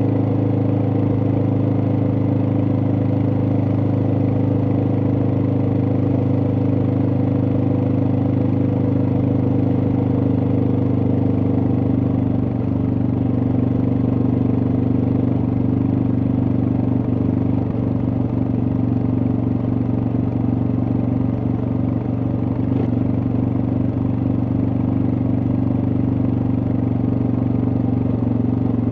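Suzuki DR650's single-cylinder engine running at a steady, even speed.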